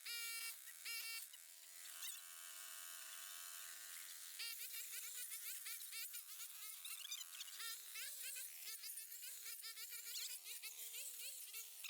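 Small engine buzzing at high speed, held steady at first and then running faster with its pitch wavering up and down from about four seconds in. Faint high chirps sound over it.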